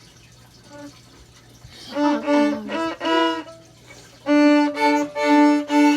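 Violin played haltingly by a novice: a short note, a few quick notes, then four long bow strokes on the same note near the end, with pauses between.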